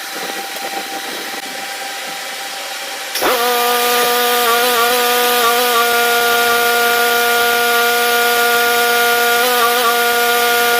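A motor-driven machine starts abruptly about three seconds in and then runs at a steady pitch, a loud even hum over a hiss. Before it starts there is only a steady hiss with a faint tone.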